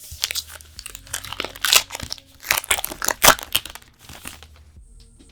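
Booster pack's plastic foil wrapper crinkling and tearing as it is pulled open by hand, in a dense run of crackles. The loudest ones come about two and three seconds in, and it quietens near the end.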